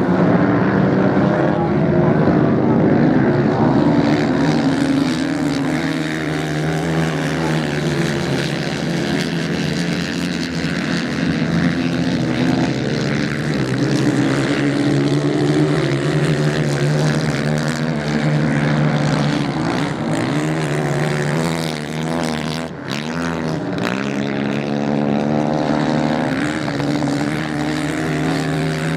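Several racing motorcycle engines running hard at once, their overlapping engine notes rising and falling in pitch as the bikes rev and pass. The sound dips briefly about three-quarters of the way through, then picks up again.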